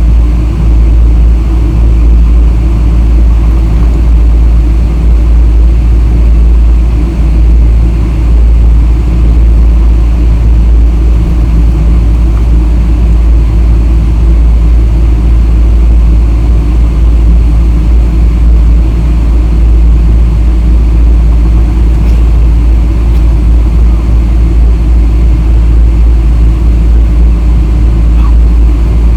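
Boeing 777-300 cabin noise: a steady, loud, deep rumble from the jet engines and airframe while the aircraft moves on the ground, with no change in pitch or level.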